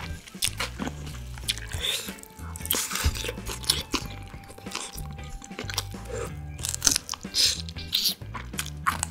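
Close-miked chewing of marinated grilled beef short ribs (LA galbi): wet mouth sounds with many short clicks and smacks, and a bite of meat taken off the rib bone near the end.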